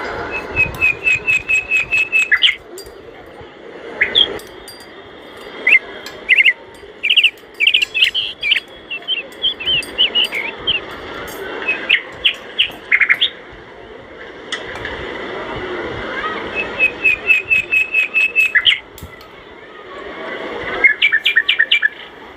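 Small birds chirping: quick runs of rapid, evenly repeated chirps, about eight a second, three times, with scattered single calls and short trills between, over a steady low hiss.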